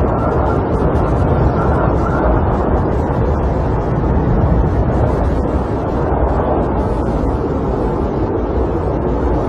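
Snowstorm wind buffeting a camper, heard from inside as a loud, steady rushing noise that swells and eases slightly.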